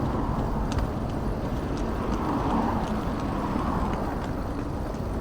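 Steady city traffic and road noise with a low rumble, heard from a moving hire e-bike, swelling slightly in the middle.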